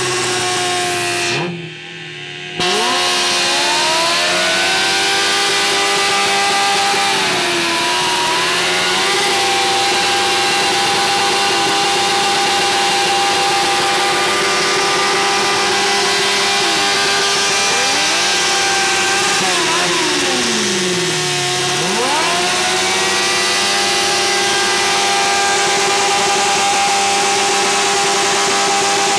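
Suzuki GSX-R inline-four engine held at high revs on a stationary bike, running steadily except for a few quick drops in revs that climb straight back up. The revving is sustained long enough to make the exhaust glow red hot.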